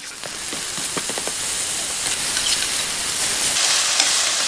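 Onion and garlic sizzling in hot coconut oil in a stainless steel frying pan, with a few light clicks near the start. The sizzle grows louder and brighter about three and a half seconds in, as diced tomato and cilantro go into the pan and are stirred.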